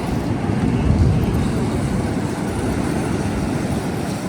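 Wind buffeting the microphone: a low, gusting rumble with no clear tone that swells about a second in.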